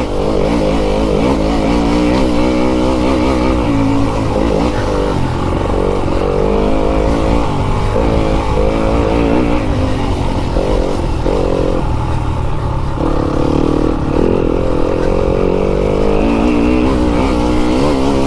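Fantic enduro dirt bike engine being ridden around a motocross track, its pitch rising and falling continually as the throttle is opened and closed, with several brief drops where the throttle is shut off.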